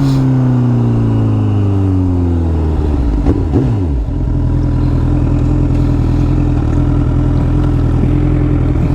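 Sport motorcycle engine just after a hard rev, its revs falling slowly for about four seconds before settling into a steady idle.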